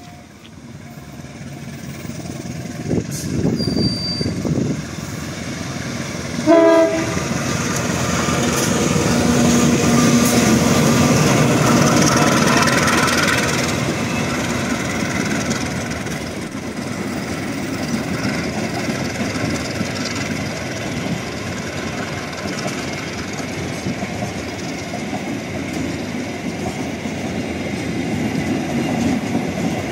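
Train passing, sounding a short horn blast about six and a half seconds in, followed by the steady rumble and clatter of its cars going by, loudest a few seconds after the horn.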